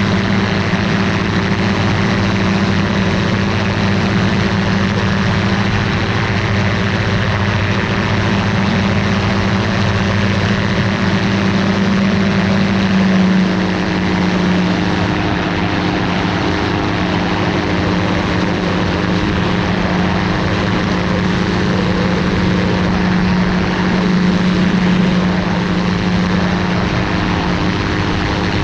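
Ultralight aircraft's engine and propeller running steadily at a constant setting; the engine note steps slightly lower about 13 seconds in, then holds.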